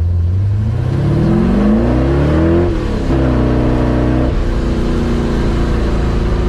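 Chevy truck engine revving up under acceleration, its pitch climbing for about two and a half seconds. The pitch then drops suddenly and the engine runs steadier at lower revs.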